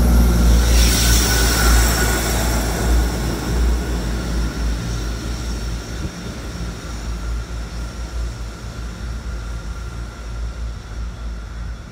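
A train running past and moving away: a low rumble with a steady high whine over it, fading gradually as it recedes.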